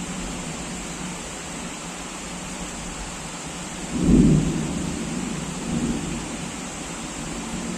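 Steady heavy rain, with a thunder clap about halfway through that rumbles and fades over a couple of seconds.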